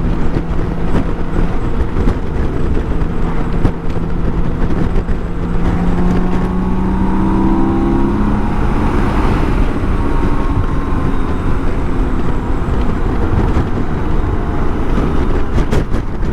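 BMW K1600 GTL's inline-six engine running at road speed under heavy wind buffeting on the microphone. The engine note rises about six seconds in and then holds steady.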